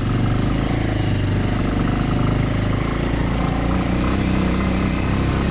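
Bajaj Avenger cruiser motorcycle's single-cylinder engine running steadily at low speed on a rough trail, with a shift in engine pitch about three seconds in.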